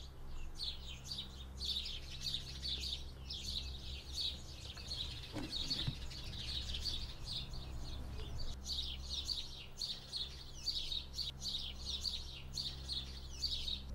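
Small birds chirping rapidly and continuously, over a steady low hum.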